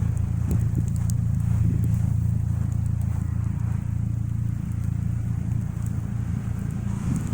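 Footsteps crunching through snow over a steady low rumble.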